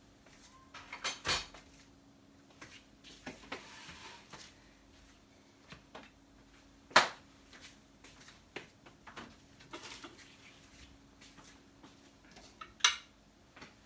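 Kitchenware being handled: scattered clinks and knocks of dishes, pans and utensils being picked up and set down, two sharper knocks about seven seconds in and near the end, over a faint steady hum.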